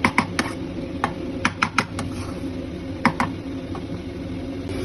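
Metal spatula knocking and scraping against a kadai while paneer bhurji is stir-fried: irregular sharp clicks, some in quick pairs, over a steady low hum.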